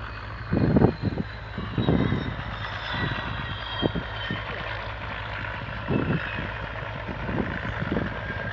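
Dassault Rafale's twin turbofan engines whining steadily at low power on the ground after landing, with a high whine that slowly falls in pitch. A few short low thumps come through, the strongest about a second in and again at about six seconds.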